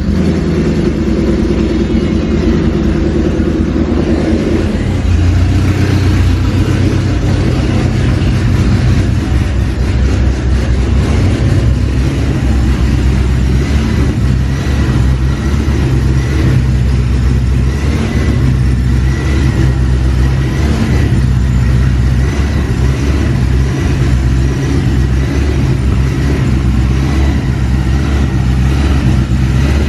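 Built supercharged 5.8-litre V8 of a Shelby GT500 running just after its first start on the rebuilt engine, a loud, steady engine note that settles into a deeper, even running about five seconds in.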